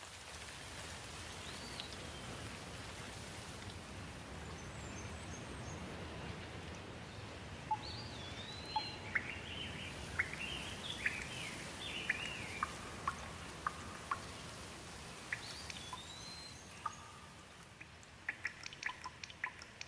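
Steady rain with birds calling over it: short chirps and whistled notes that rise and fall, busiest through the middle, then scattered sharp drips near the end.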